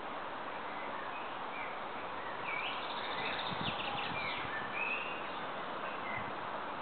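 Birds chirping over a steady background hiss, with a cluster of short chirps and whistles in the middle.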